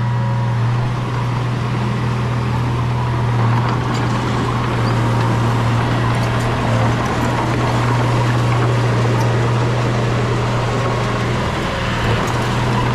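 Bulldozer's diesel engine running steadily under load, a deep even drone with faint scattered clicks.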